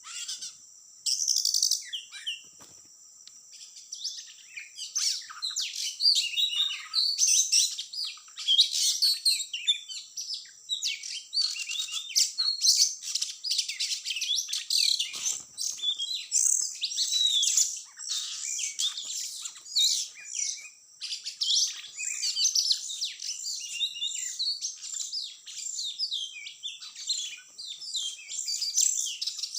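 Oriental magpie-robin (kacer) singing a long, rapid run of varied chirps and whistled phrases, over a steady high insect drone.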